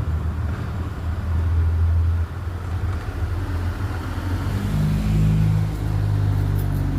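Car engine running with a low rumble, its note stepping up about four and a half seconds in.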